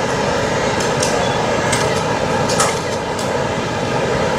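Electric train running through a station, a steady rumble and hiss with faint light clicks.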